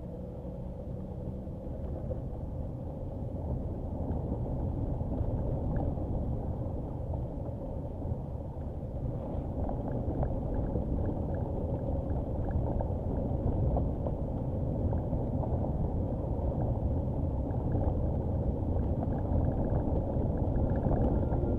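Nissan Qashqai driving slowly along a rough dirt track: a steady low rumble of engine and tyres, with scattered small ticks and knocks from the track.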